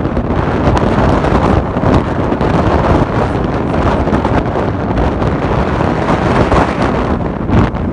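Blizzard wind blowing hard across the microphone: a loud, steady rushing.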